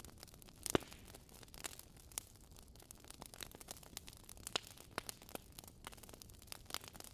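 Wood fire crackling: irregular small pops and snaps over a faint hiss, with one sharper snap under a second in.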